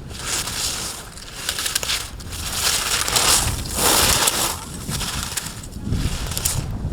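Skis scraping and hissing over hard-packed snow in a few swelling passes, the longest and loudest in the middle.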